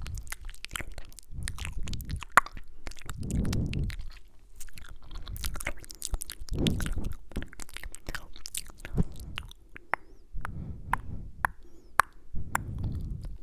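Close-miked ASMR mouth sounds: many sharp, wet mouth clicks and kissing sounds, with soft breathy swells of inaudible whispering every few seconds.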